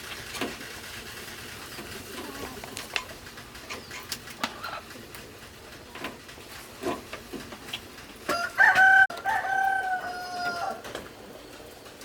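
A rooster crowing once, a long pitched call starting about eight seconds in, over scattered light clicks and knocks.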